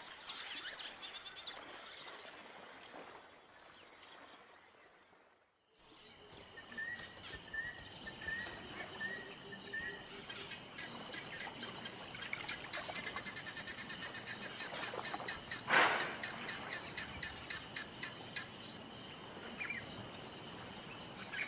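Wild bush ambience of animal calls: a short row of repeated bird chirps, then a fast, even pulsing call at several pulses a second. One louder sharp sound comes partway through. Near the start the sound drops out almost to silence for about two seconds.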